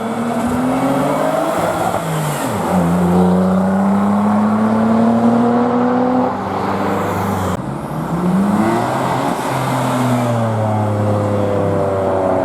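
Modified car engines accelerating hard past on the road. The pitch climbs several times as they rev up through the gears, and the sound changes abruptly about seven and a half seconds in.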